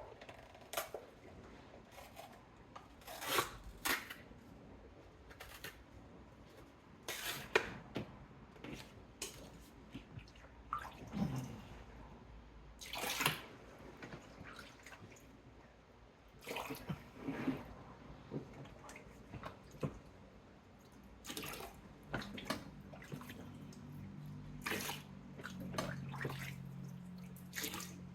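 Standing water being scooped out of a dishwasher tub, in irregular splashes and pours every second or two. The water is left standing in the tub because the dishwasher has not drained.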